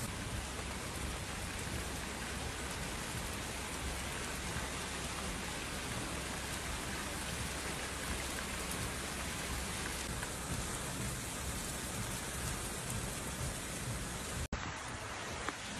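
Steady heavy rain, an even hiss with no break until a brief dropout near the end, after which it carries on with more low rumble.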